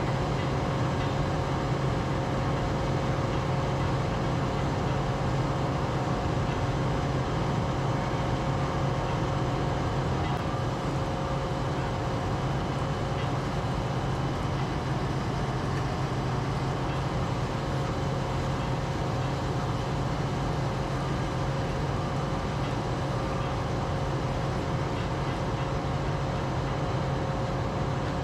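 A steady machine hum with a few constant tones, unchanging throughout, like a running engine or vehicle.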